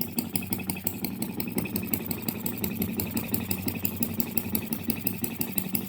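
OKMO 1105B model single-cylinder engine running steadily at idle, with rapid, even firing beats.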